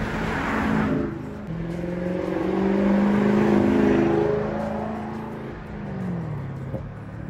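Toyota Celsior's V8 engine running as the car accelerates past, swelling to its loudest in the middle and then fading away with the pitch dropping near the end.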